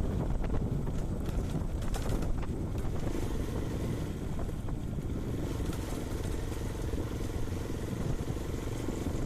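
Hero Karizma motorcycle engine running steadily while riding, with wind noise on the microphone.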